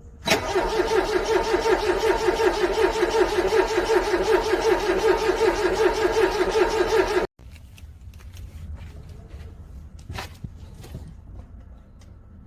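Cold car engine cranking on its starter in a fast, even pulse for about seven seconds without firing, then stopping abruptly. A few faint clicks follow. The engine is struggling to start in freezing cold.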